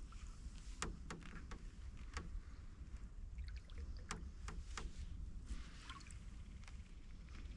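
Canoe being paddled: water trickling and dripping off the paddle, with scattered sharp ticks and light knocks, over a low steady rumble.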